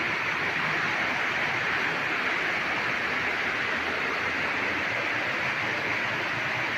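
Waterfall's falling water rushing steadily, a constant even hiss.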